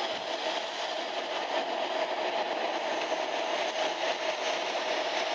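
A train running through a rail tunnel, heard from on board: a steady rumble of wheels and running gear inside the tunnel.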